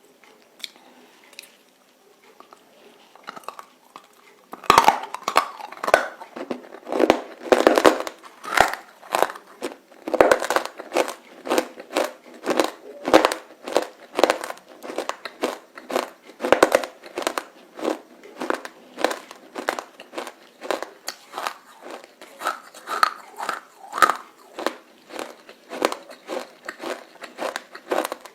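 Close-up crunching and chewing of roasted edible clay (nakumatt) pieces: crisp, rapid bites and chews, several a second. They start after about four and a half seconds of quiet.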